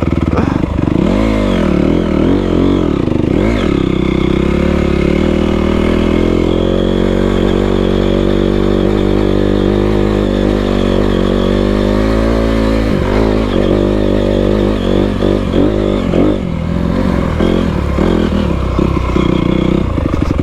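Dirt bike engine running under way on a trail, its revs rising and falling with the throttle, steadier in the middle and choppier near the end, with some clatter from the bike.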